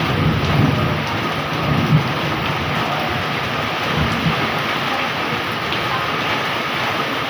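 Heavy rain pouring steadily, with the last of a thunder rumble dying away over the first couple of seconds.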